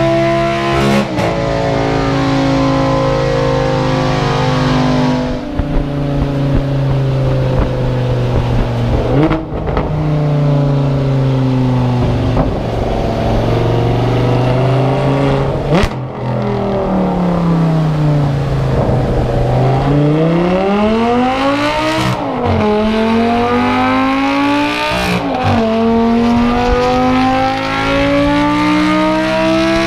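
Lamborghini Gallardo Superleggera's V10 engine running hard on a dyno through a Tubi Style exhaust. Its pitch sinks slowly through the middle, then climbs twice near the end, each climb cut by a sudden drop in pitch like a gear change. A few short sharp cracks come through along the way.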